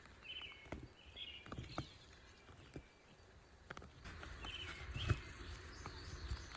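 A small songbird chirping in short phrases several times, over scattered sharp clicks and knocks. A low rumble comes in at about four seconds.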